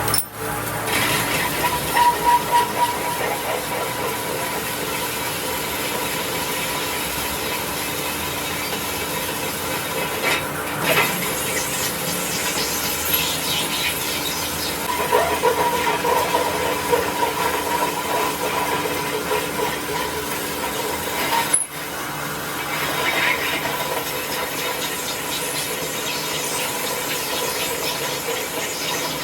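Workshop tool noise: continuous scraping and rubbing over a steady high whine, briefly broken about two-thirds of the way through.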